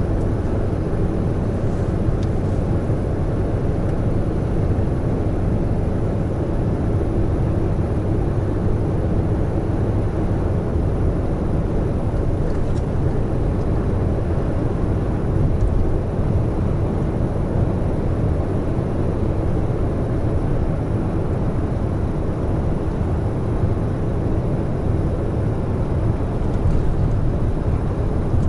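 Large truck cruising at highway speed: a steady drone of engine and road noise that holds unchanged throughout.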